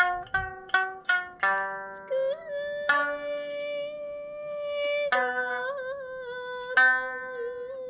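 Sanshin, the Okinawan three-stringed lute, plucked in a quick run of notes that ring and fade. A sustained, wavering melody line is held over it from about two seconds in.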